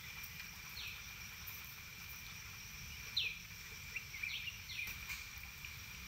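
Small birds calling in short, sharply falling notes: one about a second in, a louder one at about three seconds, and a quick cluster between four and five seconds. Underneath runs a steady high insect drone.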